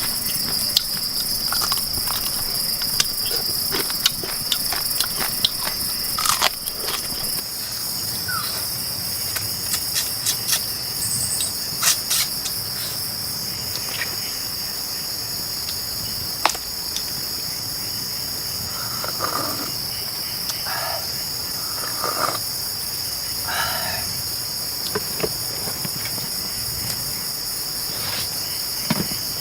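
Rainforest insects droning in one steady, high-pitched chorus, with scattered sharp clicks and knocks in the first half and a few short animal calls about two-thirds of the way in.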